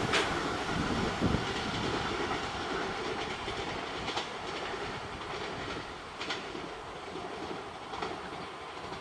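JR East E657 series electric limited express train running away along the track, its rumble fading steadily, with a few sharp clacks from the rails.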